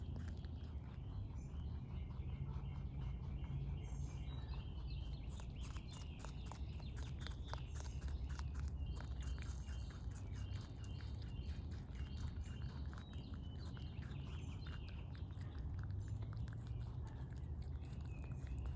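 Wild rabbit chewing close to the microphone: rapid crunching clicks, densest in the middle. A bird calls behind it in runs of short repeated chirps, over a steady low rumble.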